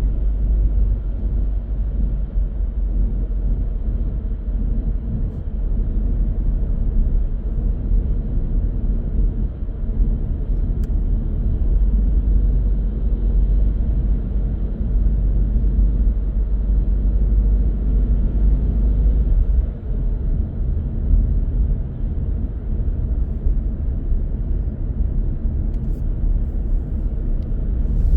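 A car driving along a main road: a steady low rumble of engine and tyre noise.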